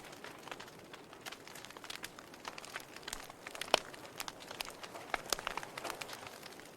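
Logs burning in a fireplace, crackling with irregular small snaps over a faint hiss, and one sharper pop about halfway through.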